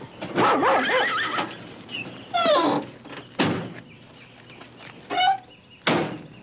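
Dogs whining and yelping in short wavering cries that slide down in pitch, with two sharp thumps about three and a half and six seconds in.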